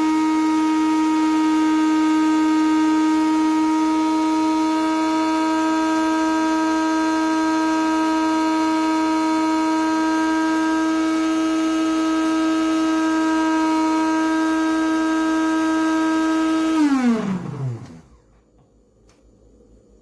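Blade grinder motor in a Cuisinart grind-and-brew coffee maker running with a steady whine, then switching off near the end and spinning down with a falling pitch.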